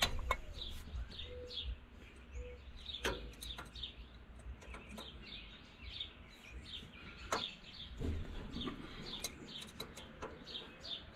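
Small birds chirping, many short falling calls repeated throughout, with a few sharp metallic clicks and knocks from hands working tractor brake parts.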